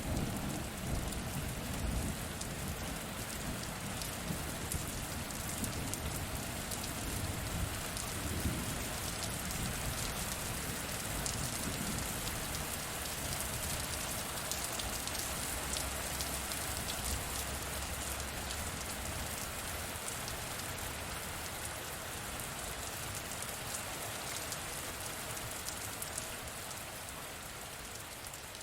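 Steady rain falling, with the low rumble of thunder dying away over the first few seconds and fading out by about halfway.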